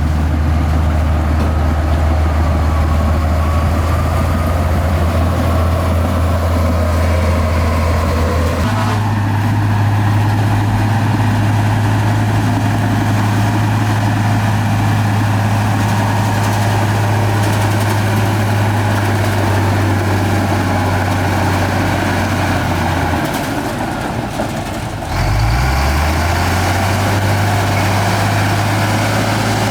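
Heavy diesel engine of earthmoving machinery running steadily. Its pitch steps up about a third of the way in. Near the end it dips briefly, then comes back up with a short rise in pitch.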